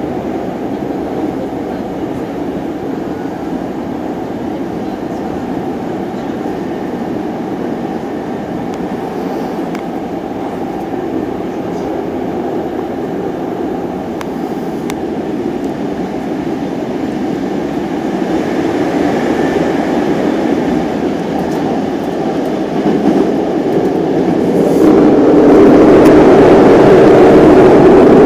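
Hankyu Kyo-train Garaku electric train running, heard from inside the passenger car: a steady running noise of wheels and motors that grows louder near the end.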